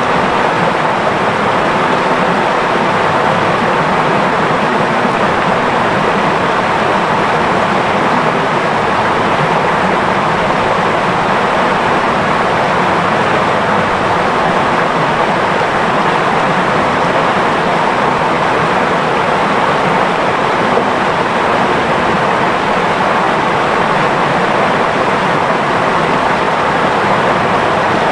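Clear river flowing, a steady, unbroken rush of babbling water.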